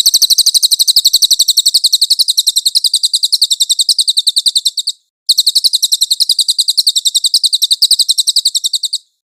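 A songbird's rapid, high-pitched trill of evenly repeated chirps, breaking off briefly about five seconds in, resuming, and stopping near the end. It is a masteran: a recorded tutor song played to teach caged songbirds.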